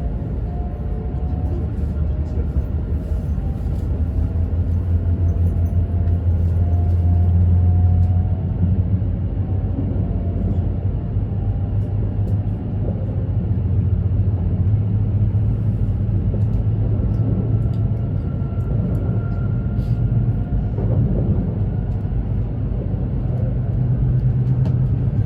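Inside an E2 series Shinkansen car while running: a steady low rumble of wheels on rail, with a faint whine that slowly rises in pitch.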